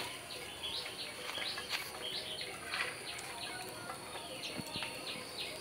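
Small bird chirping outdoors: repeated short, high chirps, each a quick sweep in pitch, coming faster in a run near the end.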